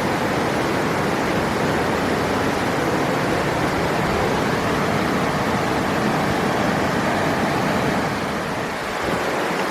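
River water rushing, a steady, even rush of flowing water that dips slightly near the end.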